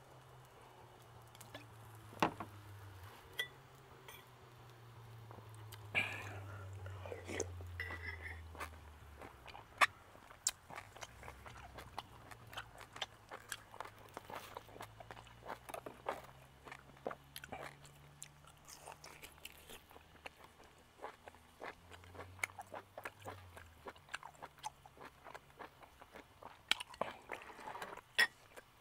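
Close-miked chewing and biting of grilled steak and fish, with frequent small clicks and taps of a fork, knife and spoon against the wooden board and bowls.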